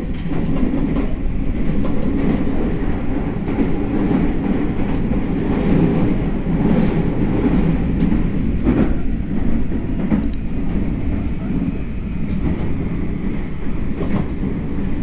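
Meitetsu 9500 series electric train running, heard from inside the car: a steady low rumble of wheels on the rails with a few short clicks.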